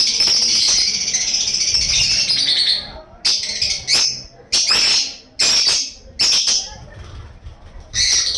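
A bird giving loud, rasping calls: one long call lasting nearly three seconds, then a run of short calls every half-second to a second.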